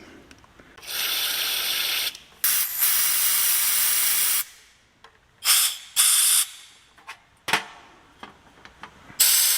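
Bursts of pressurised spray hissing through the passages of a small-engine carburetor as they are blown clear: two long blasts of about one and two seconds, then several short squirts and a sharp click.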